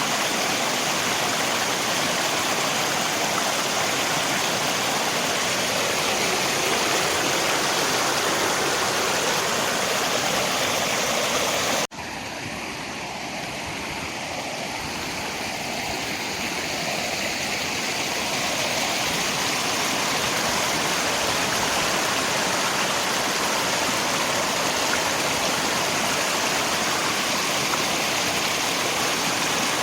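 Steady rushing of river water and rain. About 12 seconds in the sound cuts off abruptly at an edit and comes back quieter and duller, swelling back to full over the next several seconds.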